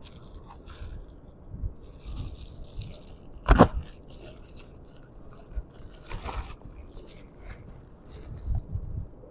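Handling noises from a new dual run capacitor and its packaging: scattered crunching, scraping and clicking, with one sharp knock about three and a half seconds in and a short rustle a little after six seconds.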